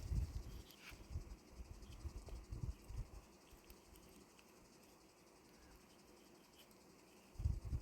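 Faint insect chirping, with a few dull low thumps in the first seconds and again near the end.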